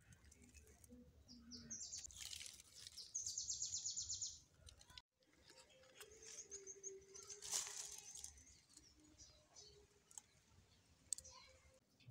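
Faint birdsong: small birds chirping with short high notes, and a fast, evenly pulsed high trill about three seconds in.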